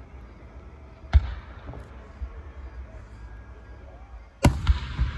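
Fireworks going off: one sharp bang about a second in, then a louder bang near the end followed quickly by two more reports and a fading rumble.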